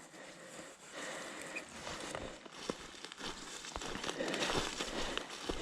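Footsteps and rustling on stony ground, with scattered small clicks and knocks, louder after about four seconds.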